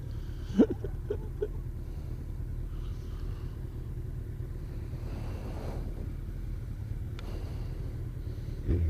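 Kawasaki ZZR1400 motorcycle running steadily on the move: a low, even rumble of engine and road noise.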